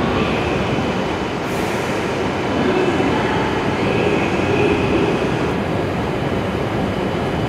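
Hokuriku Shinkansen train moving on the station tracks: a steady rumble of wheels and motors, with a faint whine that comes and goes.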